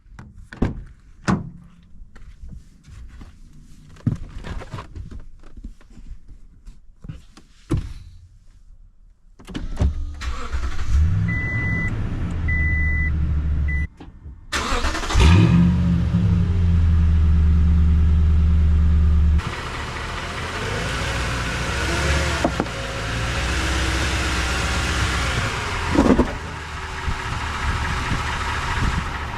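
A 2021 Toyota Tundra's 5.7-litre V8: scattered clicks and knocks, then the engine starts about ten seconds in, with a dash chime beeping several times. It cuts off, starts again with a brief rev, settles to a steady idle, and runs on in a noisier steady drone for the last ten seconds.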